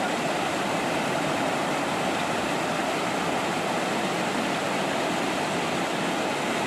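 Rushing river water: a steady, even noise of flowing water.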